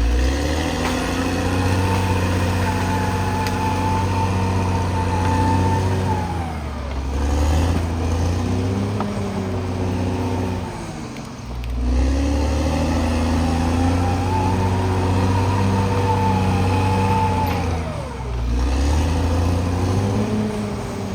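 Caterpillar D6R XL bulldozer's diesel engine working under load, its pitch climbing and holding, then dropping away twice, about a third of the way in and again near the end, in repeating push cycles.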